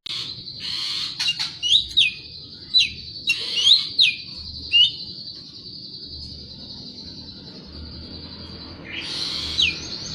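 Cucak ijo (greater green leafbird) singing: a string of short, sharp down-slurred whistles in the first five seconds, with one more near the end, over a faint steady high hiss.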